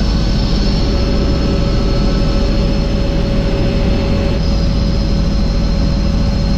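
Helicopter engine and rotors running, heard from inside the cabin: a loud, steady rumble with a fast low beat and a high, even whine.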